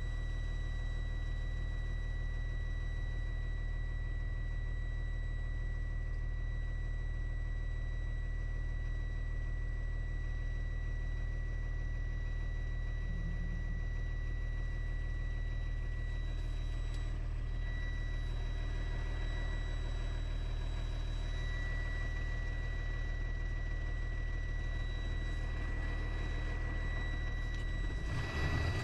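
Delivery truck's engine running steadily, heard from inside the cab as a low hum with a thin, steady high whine over it; the sound shifts near the end.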